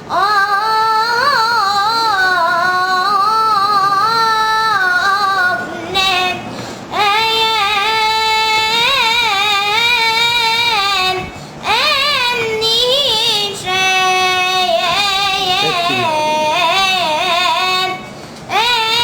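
A young boy singing solo in a high voice, long held phrases with rapid wavering ornaments on the notes, broken by short pauses for breath about six, eleven and a half and eighteen seconds in.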